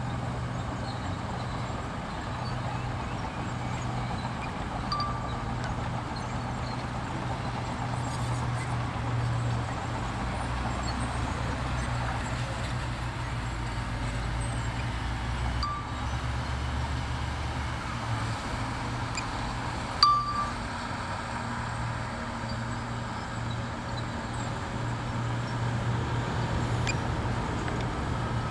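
Bulldozer's diesel engine running steadily at work, with a few short metallic clinks; the loudest, a sharp clank, about twenty seconds in.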